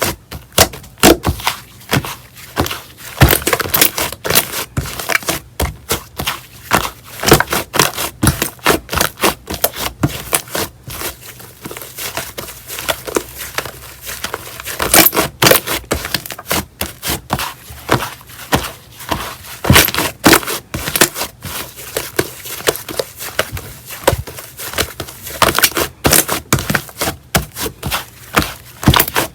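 Slime being squished and pressed by hand: a dense, irregular run of sticky crackles and pops.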